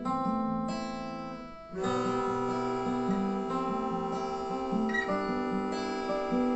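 Acoustic guitars playing an instrumental passage without vocals. A strummed chord rings and fades, then the playing comes back in with new held chords about two seconds in.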